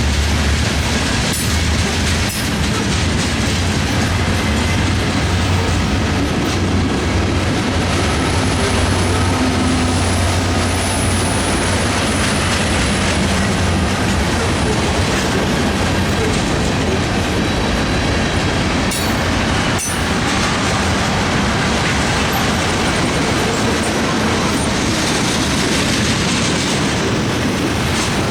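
Norfolk Southern freight train rolling past, a steady loud rumble of steel wheels on rail with clickety-clack over the joints. A thin high wheel squeal comes in briefly about a third of the way through.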